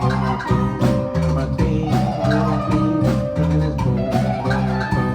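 Live band playing an instrumental passage: guitar over a moving bass line, with drum hits.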